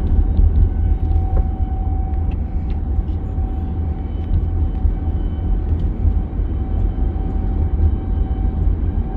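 Steady road and engine rumble inside a moving car's cabin, with a faint thin whine that comes and goes.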